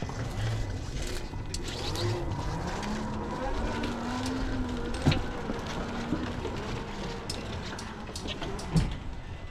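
A motor speeding up, its pitch rising over about two seconds and then holding steady, with scattered clicks and knocks.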